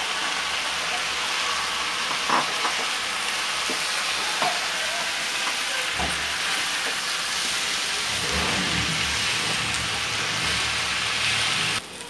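Rice and vegetables sizzling as they are roasted on high heat in a steel kadhai, stirred with a wooden spoon that scrapes against the pan now and then. The sizzle drops off abruptly near the end.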